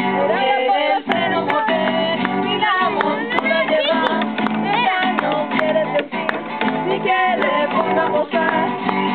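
Acoustic guitar music: an instrumental passage between sung verses, with plucked strings and a gliding melodic line.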